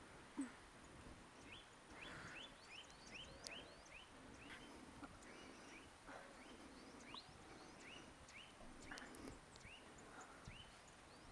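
A small bird chirping faintly, repeating a short high rising chirp about twice a second.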